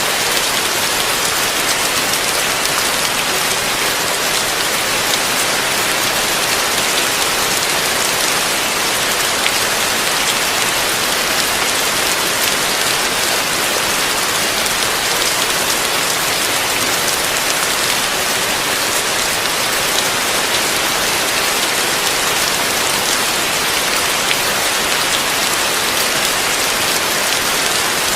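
Heavy rain falling steadily, a dense even hiss of drops with no change in intensity.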